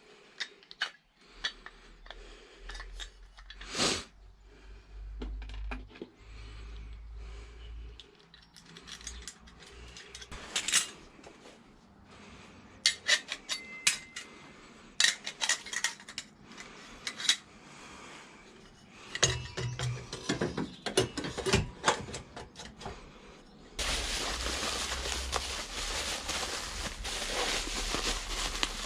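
Scattered metallic clinks, taps and knocks of tools and metal exhaust parts being handled during an exhaust fitting. A steady hiss comes in near the end.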